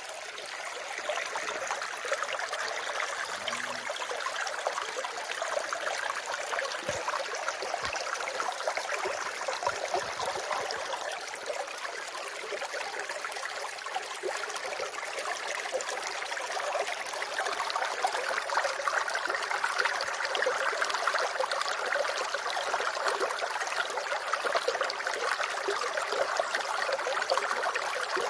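Running water: a steady, continuous flowing and trickling rush.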